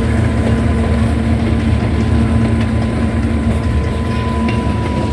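Passenger train running along the track: a loud, steady rumble with a thin, steady high whine held over it.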